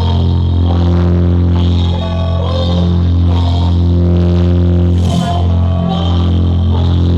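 Loud music played through a large horeg sound system with ten subwoofer cabinets, dominated by a deep, droning bass line whose notes change every second or two.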